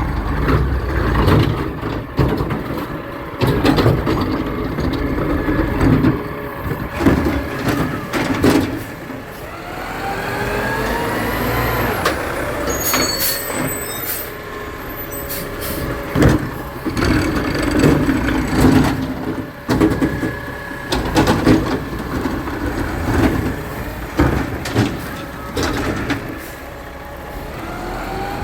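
Garbage truck at work: its diesel engine runs and revs with a rising whine about ten seconds in and again near the end. Repeated clanks and bangs sound throughout.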